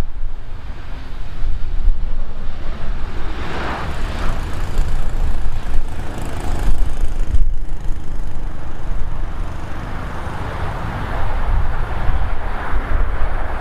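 Wind buffeting the microphone over the rushing noise of a passing aircraft's engines, which swells twice.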